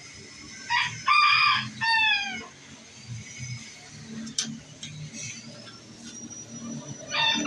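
A rooster crows once, starting just under a second in; the crow ends on a drawn-out note that falls in pitch. A shorter loud call follows near the end.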